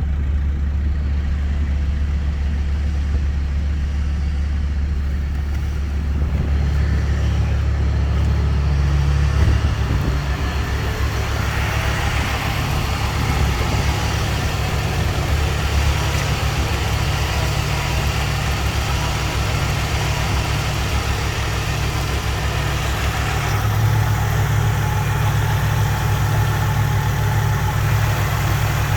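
Mercedes-Benz M112 3.2-litre V6 engine running steadily at idle, its tone shifting slightly about ten seconds in and again near the end.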